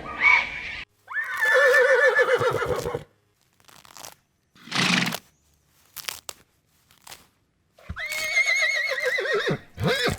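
Horse whinnying: two long, quavering neighs, one near the start and one near the end, with a few short breathy sounds between them.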